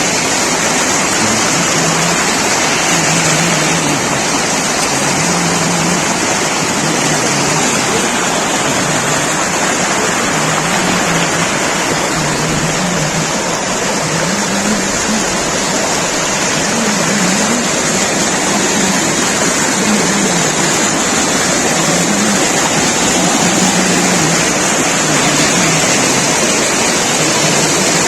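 Waterfall: water falling and rushing in a steady, unbroken loud rush.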